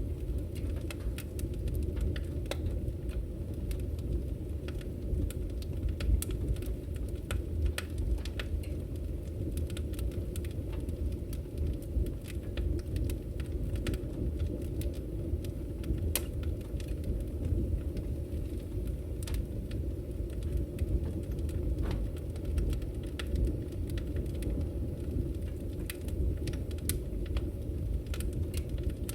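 Wood fire burning in a fireplace: a steady low roar of the flames with sharp, irregular crackles and pops of the firewood.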